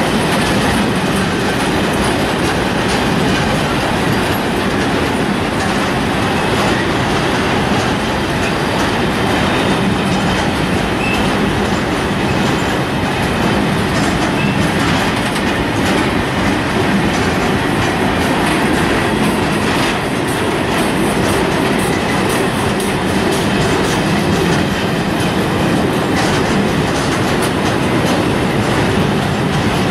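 Freight train of car-carrier wagons rolling past at steady speed: a continuous loud rumble of steel wheels on the rails, with clattering over the rail joints.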